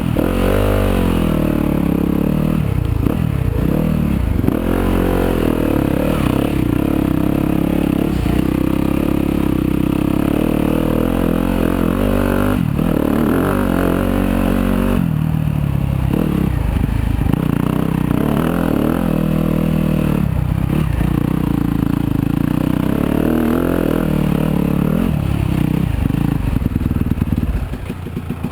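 Yamaha YZ250FX dirt bike's single-cylinder four-stroke engine running under riding load, its pitch rising and falling with the throttle. Near the end it drops back to a quieter idle.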